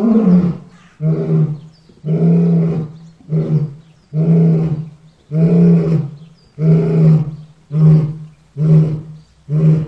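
Lion roar sound effect: a run of about ten deep, pitched roars in a row, roughly one a second, the later ones shorter and choppier.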